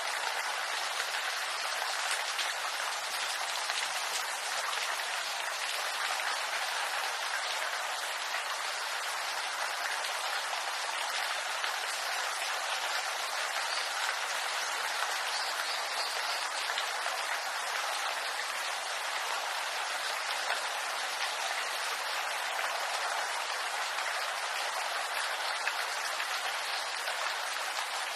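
Steady rain falling on bamboo leaves: a dense, even patter of many small drops.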